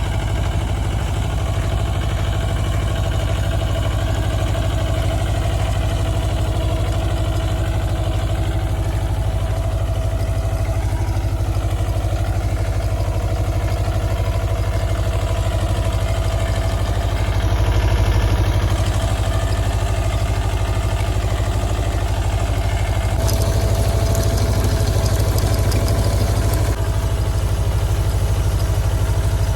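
Mahindra Jivo 305 DI tractor's diesel engine running steadily at an even pace. For a few seconds in the last third, a hiss joins it.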